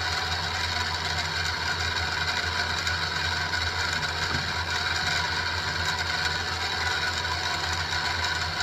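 Central Machinery SIEG X2-type mini milling machine running steadily with its end mill cutting 1045 steel: an even hum with a steady whine from the motor and gear head.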